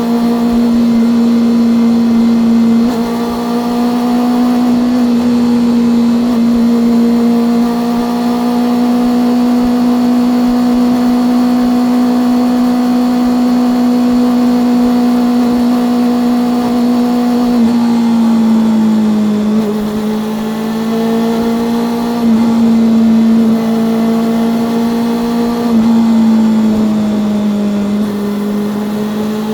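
Honda CB400SF's inline-four engine and exhaust running under way at a steady cruising pitch for most of the stretch, then dropping and picking back up a few times near the end as the revs change.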